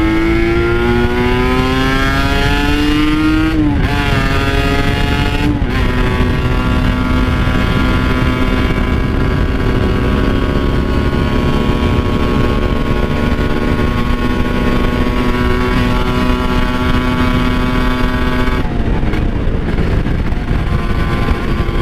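Kawasaki Ninja RR two-stroke single-cylinder engine under way. Its pitch climbs through a gear, drops at an upshift about four seconds in, and dips briefly again a little later. It then holds a nearly steady pitch for about twelve seconds before falling as the throttle closes near the end.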